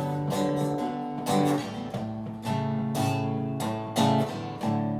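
Song music in an instrumental passage: acoustic guitar strumming chords, with a fresh strum about every half second to a second.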